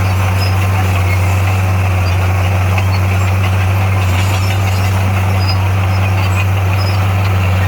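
Heavy diesel engine of earthmoving equipment running at a steady speed, a constant deep drone with no change in pitch.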